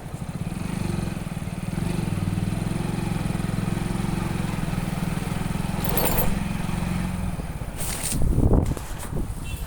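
Motorcycle engine running steadily under way, with a short rattle about six seconds in and a loud rush of noise around eight seconds in.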